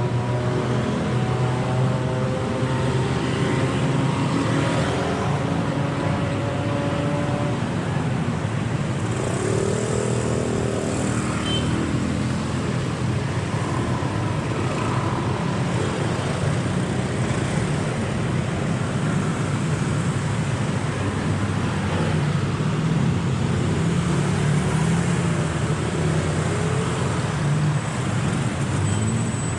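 Steady city street traffic: the engines and tyres of cars and motorcycles running past.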